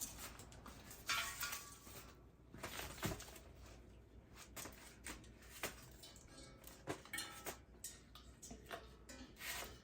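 Metal parts of an outdoor fryer being handled: irregular light clanks, knocks and rattles of metal on metal.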